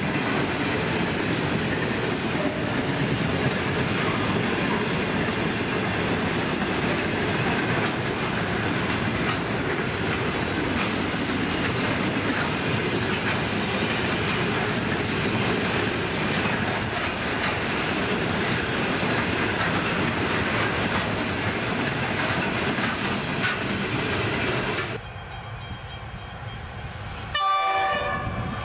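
Container wagons of a long diesel freight train rolling past with a steady rumble and wheel clatter on the rails. Near the end the rolling noise stops abruptly. An approaching NR-class diesel locomotive then gives a short horn blast.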